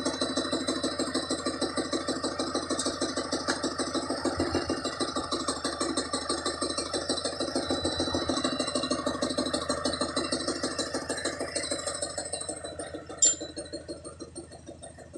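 An engine idling with a steady, rapid pulse, fading off about twelve seconds in, followed by a single sharp click.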